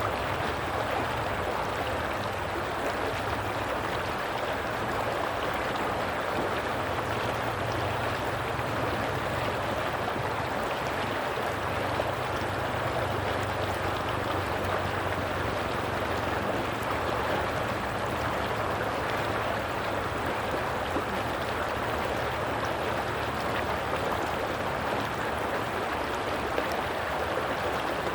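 Running water of a stream, a steady rushing and gurgling that does not change.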